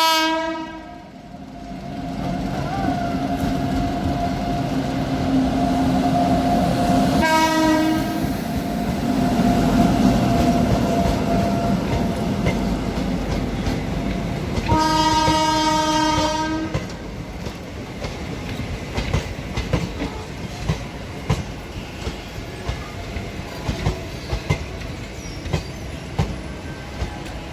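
Passenger train passing: the locomotive's horn sounds three times, a brief blast at the start, a short one about seven seconds in and a longer one of about two seconds mid-way, over the steady running noise. After that the coaches' wheels clatter rhythmically over the rail joints.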